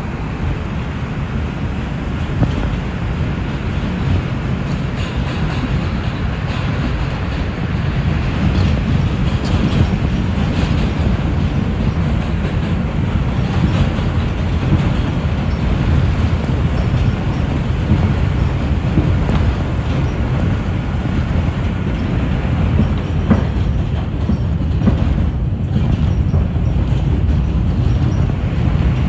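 NYC Subway R142 train running between stations, heard from inside the car: a steady low rumble of wheels on rail with a few faint clicks. It grows louder over the first several seconds as the train picks up speed.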